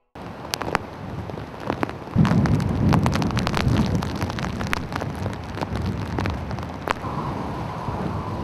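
Typhoon rain falling hard, with many sharp taps of drops striking close by. Gusting wind buffets the microphone, its low rumble coming in strongly about two seconds in.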